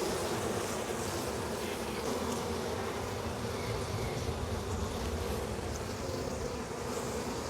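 A colony of honeybees buzzing in a steady, continuous hum around an opened hive whose frames are out for inspection.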